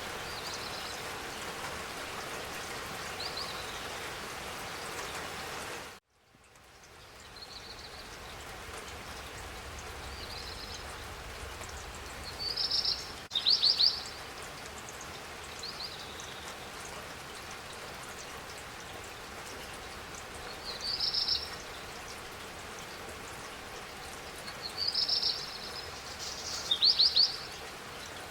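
Steady spring rain hiss with songbirds chirping now and then in short calls, the loudest clusters about halfway through and near the end. About six seconds in the sound cuts out abruptly and fades back in, a splice in the recording.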